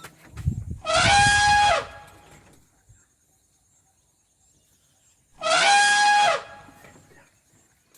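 An animal calling twice, each a loud call just under a second long that holds one pitch and drops at the end, about four seconds apart.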